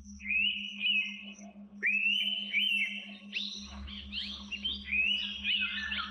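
Indian pitta giving clear whistled calls: each note rises and is held, and some drop at the end. After about three seconds the notes become a dense, overlapping run. A steady low hum runs underneath.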